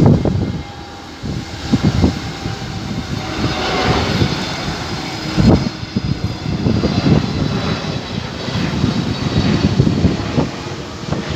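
Airbus A320neo jet engines passing on final approach, a steady whine of several thin tones over a broad rumble. Wind buffets the microphone in gusts throughout.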